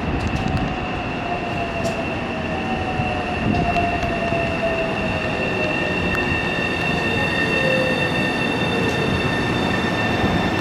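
Nankai electric train at a station platform, with a steady high-pitched squeal over its rumble and a motor whine slowly falling in pitch.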